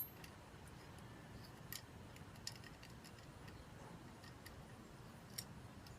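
A few faint, sparse light clicks of a diecast model airplane and its display stand being handled, over a quiet background.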